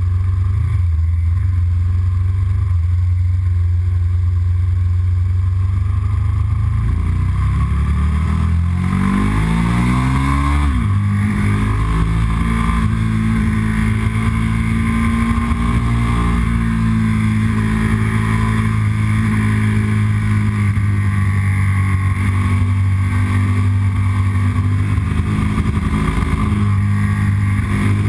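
Yamaha R1 motorcycle's inline-four engine running under way, holding a steady note, then rising in pitch for about three seconds from about eight seconds in and falling back suddenly, then running steadily at a slightly higher pitch.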